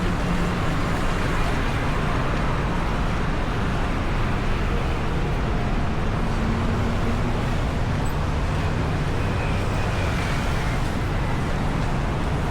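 Steady road traffic noise: the continuous rumble and hiss of passing vehicles, with no distinct events standing out.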